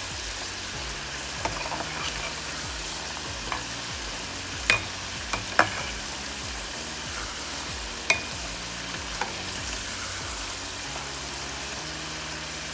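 Chicken tenders and french fries deep-frying in hot oil: a steady sizzle, broken by a few sharp clicks, the loudest about five and eight seconds in.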